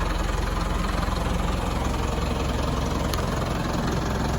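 A 2006 Mitsubishi box truck's diesel engine idling steadily.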